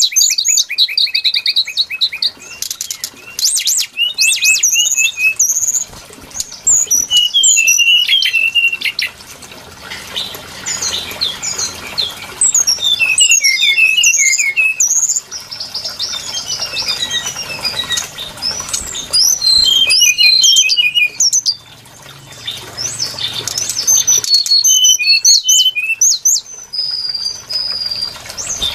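Brown-chested jungle flycatcher song: a rapid, varied string of high whistles, trills and chips with a few short lulls.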